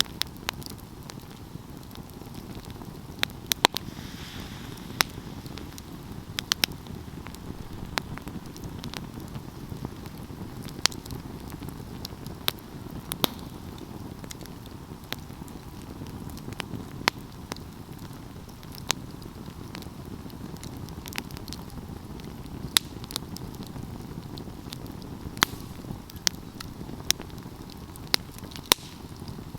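Wood fire burning: a steady low rumble of flames with sharp, irregular crackles and pops scattered throughout.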